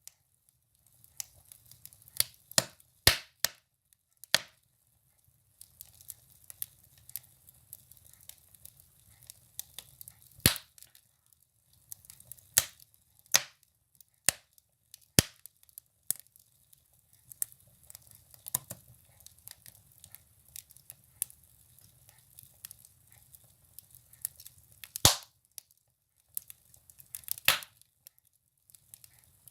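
Firewood burning in a wood stove: irregular sharp crackles and pops from the logs, a few loud ones spread a few seconds apart, over a faint low rumble of the fire.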